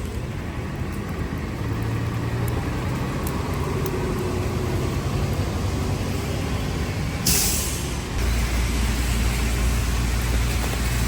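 Street traffic with a heavy vehicle nearby: a short, loud hiss of air brakes about seven seconds in, then a steady low engine rumble.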